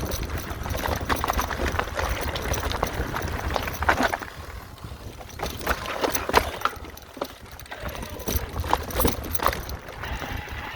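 Mountain bike riding down a rocky singletrack trail: a steady low rumble of wind and tyre noise, broken by many sharp clicks and knocks as the bike rattles over rocks and roots.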